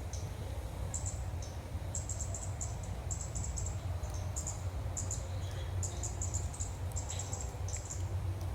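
High, thin chirps in short rapid clusters, repeating every half second or so, from small birds or insects, over a steady low hum.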